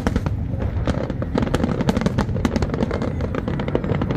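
Aerial fireworks shells bursting in rapid succession: a dense run of sharp bangs and crackles over a continuous low rumble.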